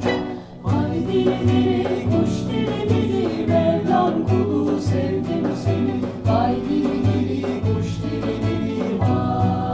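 Modern Turkish folk song: several voices singing in close harmony over a steady, evenly pulsing bass line, with plucked strings underneath.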